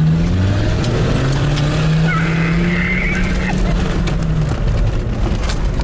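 An off-road 4x4's engine working under load, its note climbing over the first couple of seconds, holding steady, then dropping away about three-quarters of the way through, over a constant rough rumble. A brief high squeal sounds near the middle.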